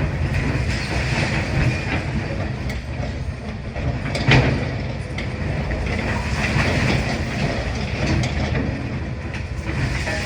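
Demolition excavator at work: its diesel engine running under a steady clatter of breaking masonry and debris, with one louder crash about four seconds in.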